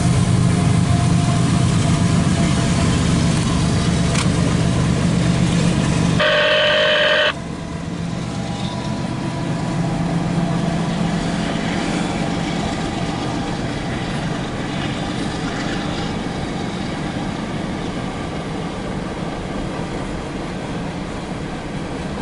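A CSX freight train passing, heard from inside a car. The diesel locomotives give a loud, steady low engine rumble for about six seconds. A short high tone of about a second follows, and then the empty coal hopper cars roll by more quietly and evenly.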